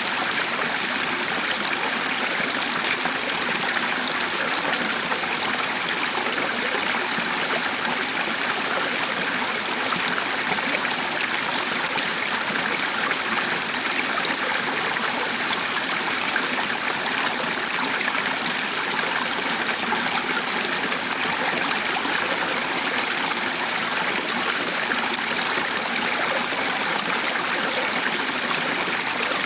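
A stream running steadily with no breaks or changes.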